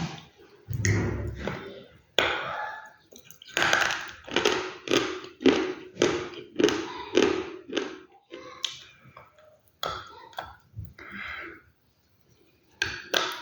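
Close-miked chewing of crunchy food: a bite and then a run of crunchy chews, about two a second, pausing briefly a couple of times.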